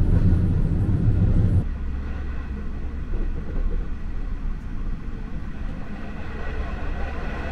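Metro train running, heard from inside the carriage: a steady low rumble that drops in level about a second and a half in, with a faint whine coming up near the end.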